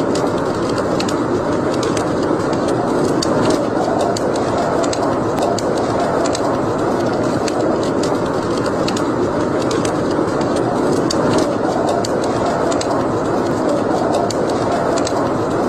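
Wood fire burning in a fireplace: a steady rushing burn with frequent small, irregular crackles and pops.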